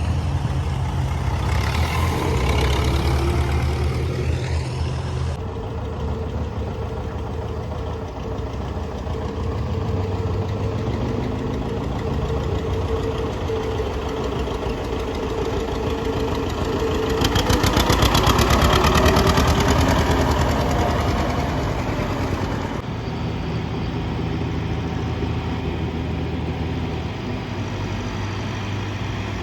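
Vintage tractor engines running steadily at low revs. One grows louder with a fast, even beat for a few seconds in the latter half, then fades again.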